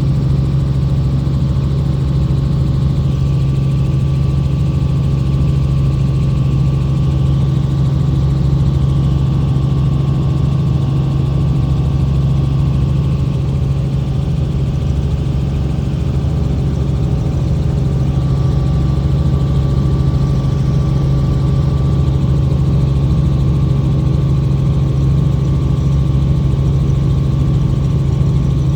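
Helicopter engine and rotor noise heard from inside the cabin in flight: a loud, steady drone with a strong low hum and a faint steady whine above it.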